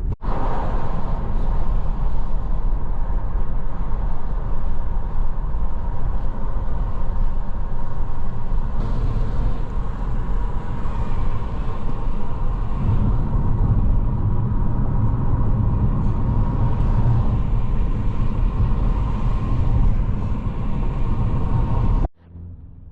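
Steady road and engine noise of a moving car: a loud, continuous low rumble with a hiss above it. It cuts off suddenly near the end.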